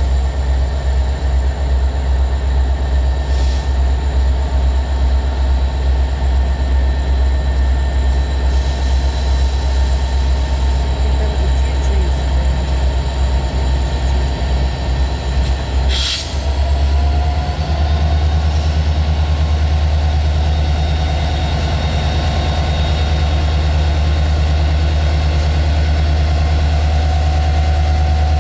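Diesel locomotive engines of a CSX freight train running under a heavy, steady low rumble as the train starts off. About sixteen seconds in there is one brief sharp noise, after which the engine note steps up a little and holds.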